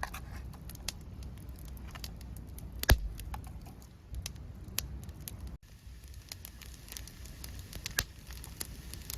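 Wood campfire crackling, with irregular sharp pops and snaps and one louder pop about three seconds in.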